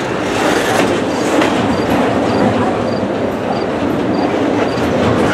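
Double-stack intermodal well cars rolling past close by: the steady rumble and rattle of steel wheels on the rail.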